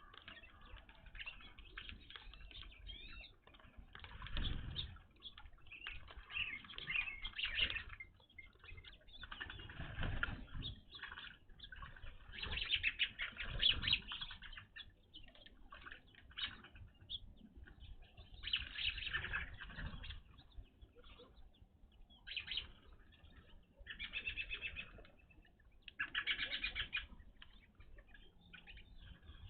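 Evening grosbeaks at a feeder: repeated bursts of wing flutter as birds come and go, mixed with chirping calls, about every few seconds.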